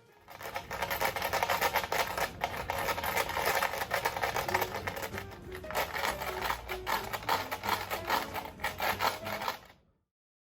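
Loose coins (one 1-yen, one 5-yen, six 10-yen and two 100-yen coins) rattling and jingling inside a small shaken container, a dense run of rapid clinks driven by a jiggling leg. It stops suddenly near the end, with faint music notes underneath.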